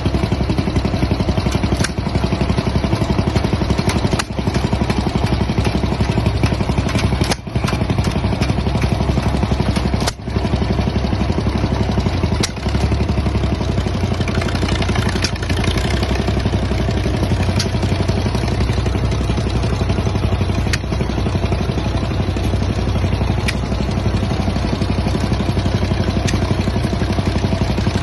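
An engine running steadily with a fast, even firing beat and a strong low rumble. It dips briefly a few times.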